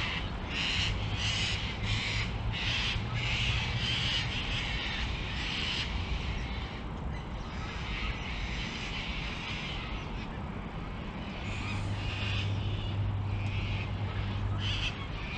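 Bird calling in runs of short, repeated calls, over a low steady hum that comes and goes.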